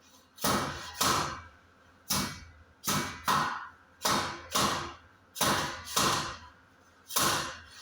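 A hammer striking metal, about ten blows in an uneven rhythm, often in quick pairs, each ringing briefly.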